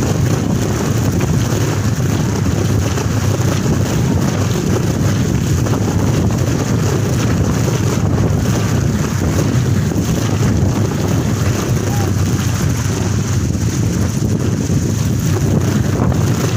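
Kolecer, a wooden propeller windmill, spinning fast in a strong wind with a steady low drone, under gusty wind rushing over the microphone.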